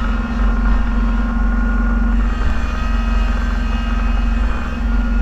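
Engine of a snowplow vehicle running steadily under load, heard from inside its cab as a strong low hum with a few steady higher tones over it.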